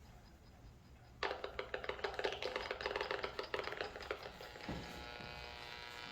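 An electronic ghost-hunting device going off: about a second in it starts a rapid chattering of clicks, which settles into a steady buzzing tone that slowly fades.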